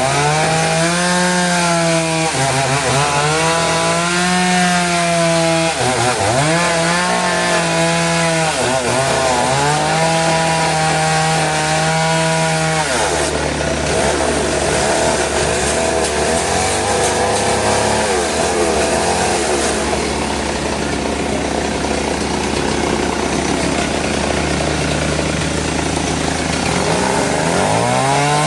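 Powered saw cutting through a log. The motor's pitch sags and recovers every couple of seconds as it loads in the cut. About halfway through it turns into a rougher, noisier cutting sound with the pitch less clear, and the steady motor pitch comes back near the end.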